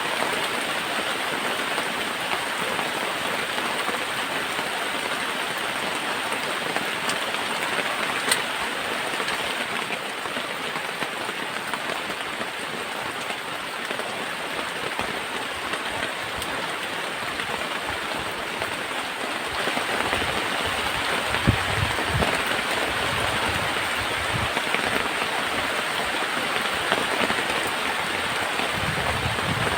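Heavy tropical rain falling steadily, a dense even hiss, with low irregular thumps joining in about two-thirds of the way through.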